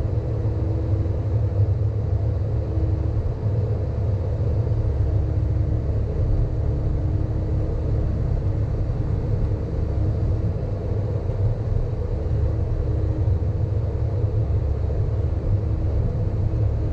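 Sany hydraulic excavator's diesel engine running steadily under work, with a faint whine that fades in and out.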